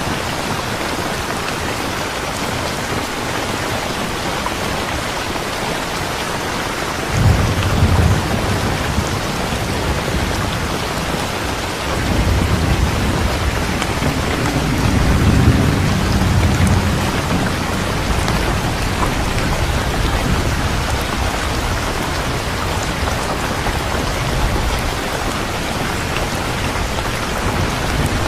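Steady heavy rain falling, with thunder rumbling low twice: a sudden roll about seven seconds in and a longer one midway.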